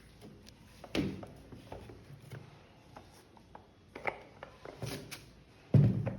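Clicks, rattles and knocks of small tool parts being handled and fitted by hand, with a heavier thump about a second in and a louder one near the end.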